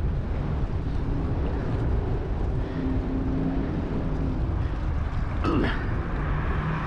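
Wind buffeting the microphone while riding a bicycle, with road traffic running in the background.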